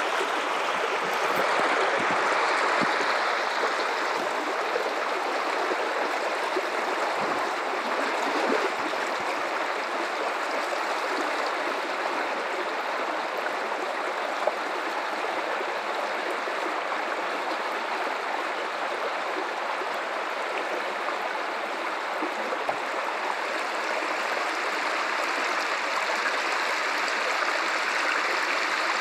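River water flowing over rocks: a steady rush with gurgling and small splashes.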